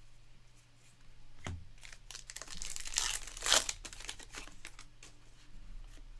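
A trading-card pack's wrapper being torn open and crinkled for about two seconds, loudest about three and a half seconds in, after a soft thump near the start.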